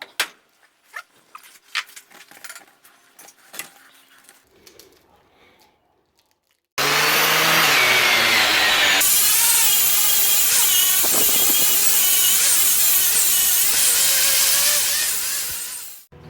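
Scattered light knocks and clicks, then a loud power tool working steel starts suddenly, its pitch wavering under load. It changes character abruptly a couple of seconds later and cuts off just before the end.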